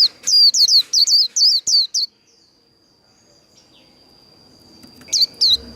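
White-eye (vành khuyên) singing its rapid 'líu' fighting song: a quick run of sharp, high notes, each sweeping downward, about four a second for under two seconds. After a pause two more notes come near the end. A thin steady high tone runs underneath.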